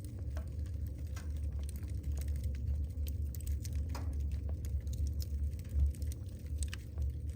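Wood fire burning in a fireplace: logs crackling, with scattered sharp pops and one stronger pop about four seconds in, over a low steady rumble.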